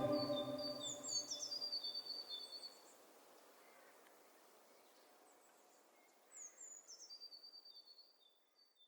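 Two short bouts of bird chirping, each a few falling whistles followed by quick repeated high notes. The first comes about a second in and the second about six seconds in, while sustained organ-like music fades out in the first two seconds.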